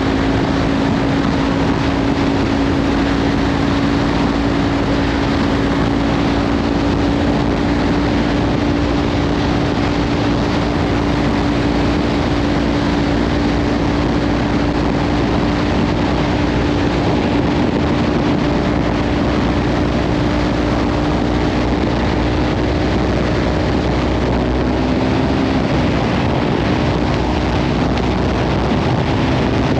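Kawasaki Ninja 500 parallel-twin with a Leovince slip-on exhaust running steadily under way, its engine note climbing slightly near the end. Heavy wind noise on the microphone lies over the engine throughout.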